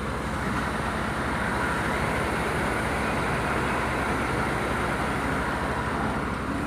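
Diesel truck engine running steadily, a low, even throb under a constant mechanical hum.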